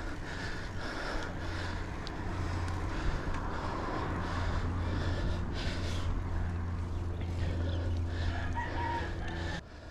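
Roosters crowing, over a steady low hum.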